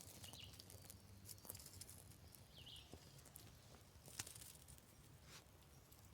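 Near silence outdoors: a few faint high bird chirps that slide downward, and several light sharp clicks and snaps, the loudest about four seconds in, of small dry twigs being laid on a just-lit kindling fire.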